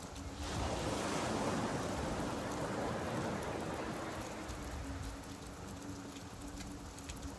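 Rain falling on a beach while a wave surges in about half a second in and slowly washes back out.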